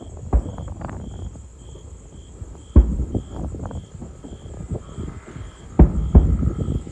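Fireworks exploding, heard through a phone's microphone: a steady low rumble and crackle broken by loud deep booms, one early, one near the middle and two close together near the end.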